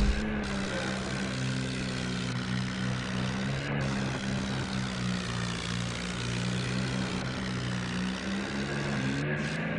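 New Holland tractor's diesel engine running steadily under load, pulling a loaded trolley, its pitch rising slightly near the end. A short thump is heard right at the start.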